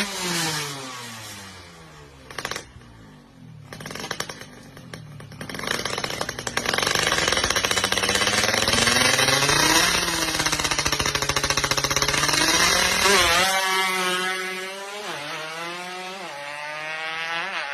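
Tuned Yamaha F1ZR two-stroke engine, bored to 130 cc, being revved: the revs fall away at the start and blip a few times, then are held high for about seven seconds, then drop and rise and fall again several times near the end. A crisp, dry two-stroke note.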